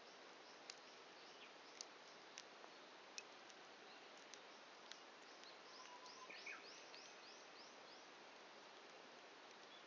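Faint wood campfire burning with a steady hiss and a handful of sharp, widely spaced crackles from the burning wood. About halfway through, a bird sings a quick run of about ten repeated short high notes.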